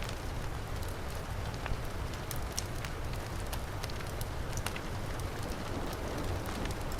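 Heavy rain falling steadily, mixed with a crackling wood fire that gives scattered sharp pops and snaps.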